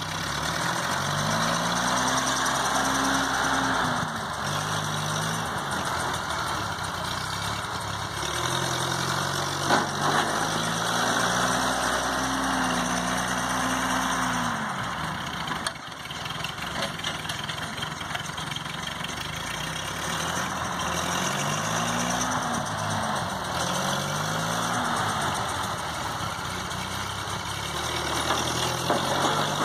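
1952 Ford 8N tractor's four-cylinder gasoline engine revving up and easing back several times, as the tractor works back and forth plowing snow, with a steady hiss underneath and a single sharp click about ten seconds in.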